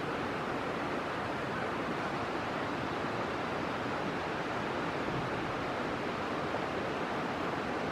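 Steady, even rushing noise outdoors, of the kind made by wind or fast-running water.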